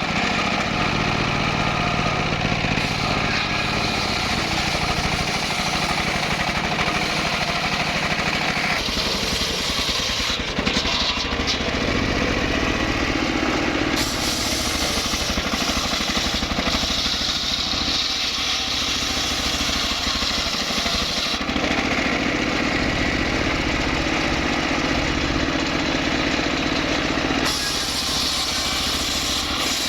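Engine-driven wood saw running continuously, its note and load shifting every few seconds as it works through the wood.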